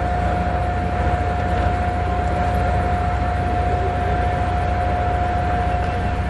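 Jet aircraft engine running steadily: a constant whine over a low rumble and airy noise, with no change in pitch.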